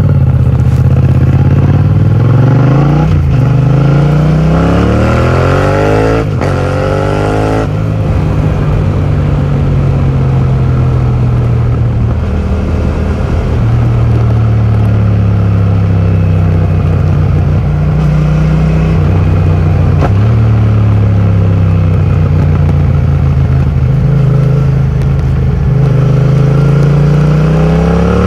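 2020 Yamaha MT-07's 689 cc parallel-twin engine through an Akrapovic full titanium exhaust with the dB killer removed, under way. It revs up through several quick gear changes in the first seconds, then the pitch falls slowly for about ten seconds, and it climbs again near the end.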